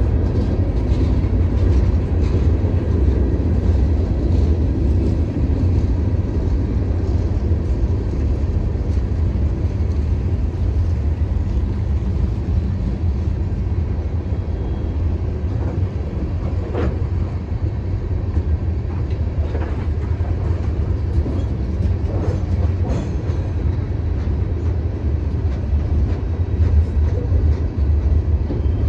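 Freight cars of a mixed freight train (gondolas, tank cars, coil cars, hoppers) rolling steadily past over a grade crossing, with a continuous low rumble of steel wheels on the rails.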